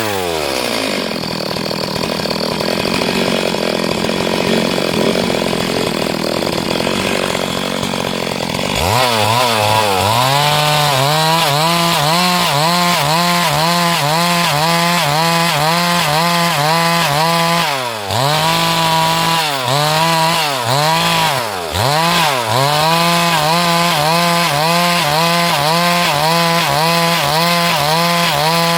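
Chainsaw drops to idle, then revs up about nine seconds in and runs under load ripping along a log, its pitch wavering up and down about twice a second as the chain bites. The engine briefly dips twice partway through, then picks up again.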